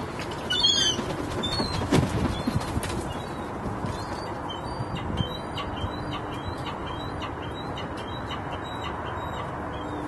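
Short, high bird chirps: a cluster just under a second in, then a steady run of about two a second through the second half, over a continuous low background rumble. A single soft knock comes about two seconds in.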